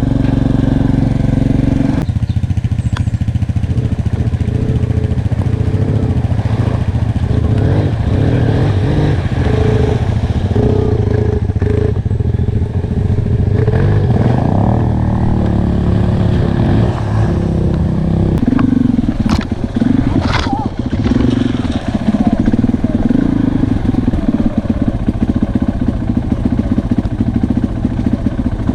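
Enduro motorcycle engine running, its pitch rising and falling as the throttle is worked, with a couple of sharp clicks a little past the middle.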